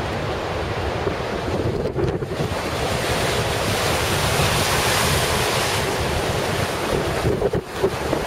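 Storm-driven Lake Superior waves breaking and surging, with gale-force wind buffeting the microphone. A broad rush of water swells up in the middle and then eases off.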